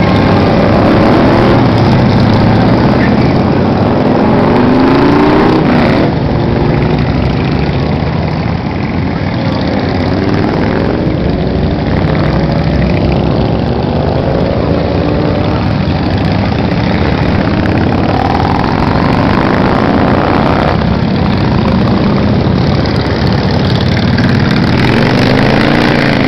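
Many motorcycles riding past in a continuous stream, their engines running loudly, with one engine after another rising and falling in pitch.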